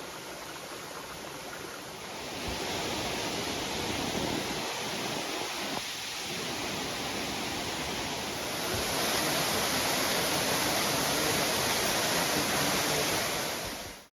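A waterfall rushing steadily. It grows louder about two seconds in and again about eight seconds in, then cuts off suddenly.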